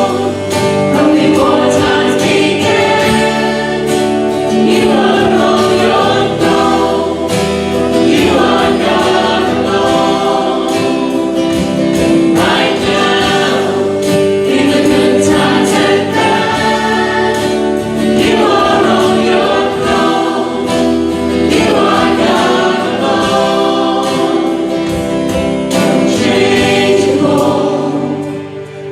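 A choir singing a hymn, with held notes and a short break near the end.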